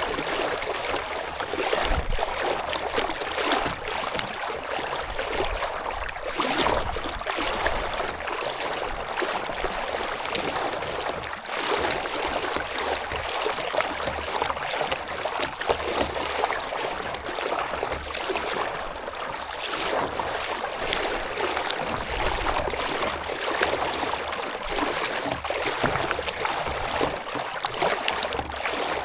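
Water splashing and lapping around a canoe being paddled, a steady rushing hiss.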